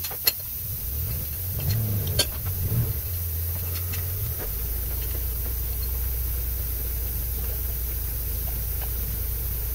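Toyota Corolla EE100 engine being started: a click, then the engine catches and runs up briefly before settling into a steady idle about four and a half seconds in.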